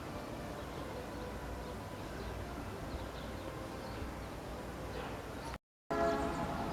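Faint bird chirps over a steady background hum, with the sound cutting out abruptly for a moment near the end.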